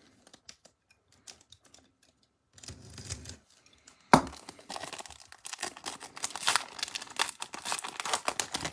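Trading-card pack wrapper being handled and torn open. Light scattered clicks at first, then a sharp rip about four seconds in, followed by steady crinkling and crackling of the wrapper.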